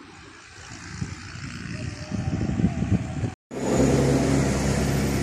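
A motor vehicle's engine growing louder as it comes closer. After a brief cut-out it runs as a loud, steady engine drone.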